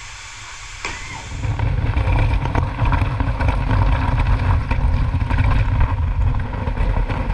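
Steady low engine rumble with wind noise from a moving vehicle. It comes in loudly after a sharp click about a second in.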